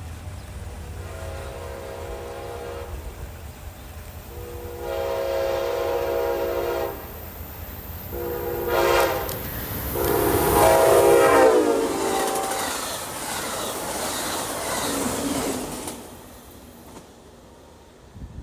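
Locomotive multi-chime air horn sounding the grade-crossing signal: long, long, short, long, with the last blast bending down in pitch. Under it the train rumbles, fading out a few seconds after the horn.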